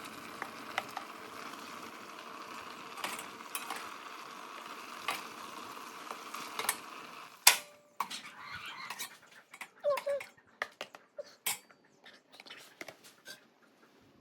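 Metal cooking utensils and dishes clinking and knocking, sharp scattered clicks. For the first seven seconds or so they sit over a steady rushing noise. After a hard clack the rushing stops, and only sparse knocks and a few short squeaky sounds remain.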